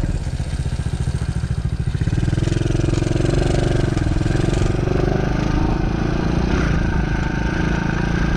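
The 110cc four-stroke single-cylinder engine of a DB14 pit bike running under throttle as it is ridden, getting louder and fuller about two seconds in.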